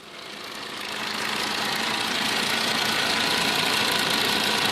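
Car engine running, with a steady mechanical noise from the engine-driven radiator cooling fan, fading in over the first second or so. The fan is seen wobbling on its shaft, which the panel takes as a possible worn fan bearing or a faulty mechanical fan clutch, a minor fault.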